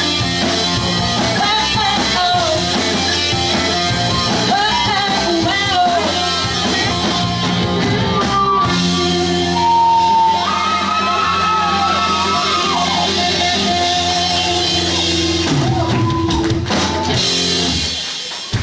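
Live pop-punk band playing: guitars, drum kit and a sung vocal line, loud throughout. The music drops away near the end as the song finishes.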